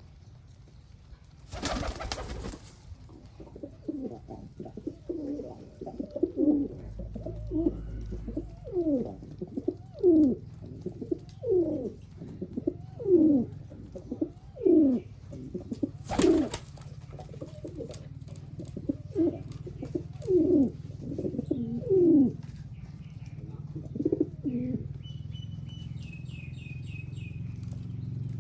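Pigeons cooing: a long run of short, low, falling coo notes, about one or two a second, broken by two brief loud rustling bursts, one near the start and one about halfway through.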